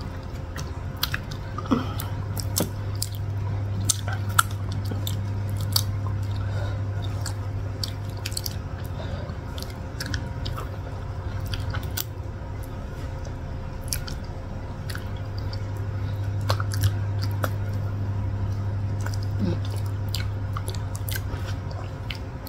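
Two people chewing soft durian flesh close to the microphone, with frequent sharp mouth clicks and lip smacks over a steady low hum.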